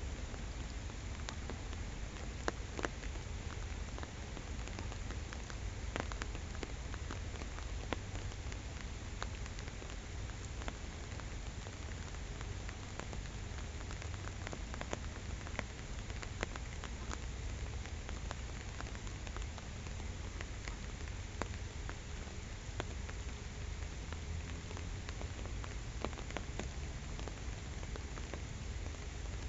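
Steady rain falling on a pond, with many separate drops ticking sharply close by over an even hiss.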